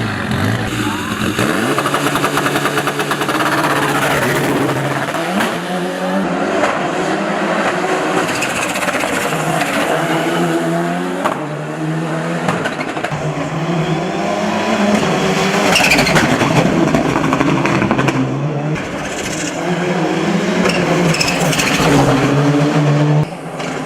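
Turbocharged four-cylinder engine of a built Mitsubishi Lancer Evolution VI hill-climb car at full attack, revving up and dropping back again and again as it runs through the gears and brakes for corners.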